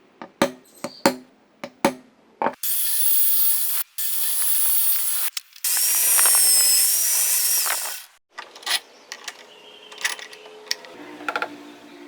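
Power tool running in three short runs of a few seconds, high-pitched, with its pitch wavering. It is set between sharp clicks and knocks of handling before and after.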